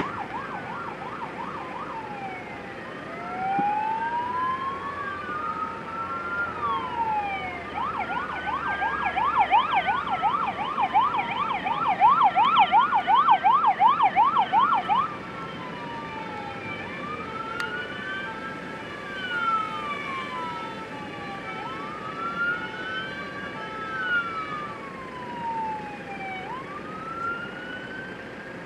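Emergency vehicle sirens. A slow wail rises and falls again and again, and a rapid yelp sweeping about three to four times a second is loudest in the middle, along with short steady tones, as if more than one siren is sounding.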